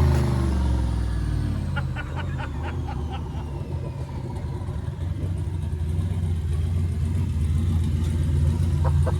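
Turbocharged LS V8 on a chassis dyno coming down off a pull. Its revs drop and a high whine winds down over several seconds, then it settles into a steady low rumble. A few quick clicks come around two to three seconds in and again near the end.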